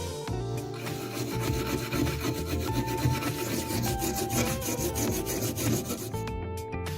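Quick rasping, scraping strokes of a hand tool working the rusty knife, over background music with steady tones. The scraping stops about six seconds in, leaving only the music.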